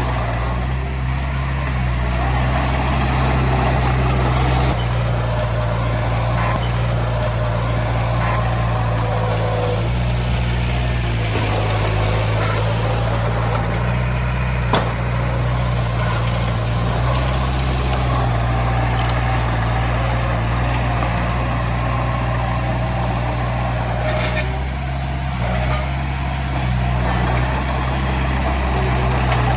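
Heavy diesel engine running steadily at an even low pitch, with one sharp knock about halfway through.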